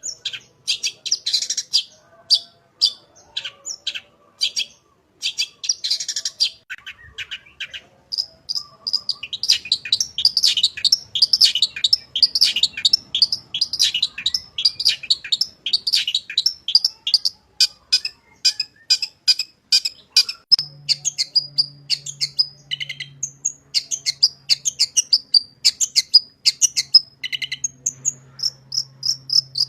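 Long-tailed shrike (cendet) singing a fast, continuous run of short, high chattering notes, full of mimicked phrases, with a brief pause about seven seconds in. A faint low hum joins about two-thirds of the way through.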